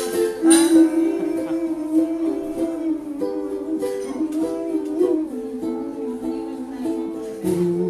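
Ukulele strummed in chords, playing an instrumental passage of a song.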